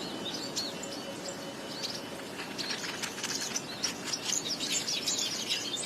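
Small birds chirping: many short, high calls, growing busier from about halfway through.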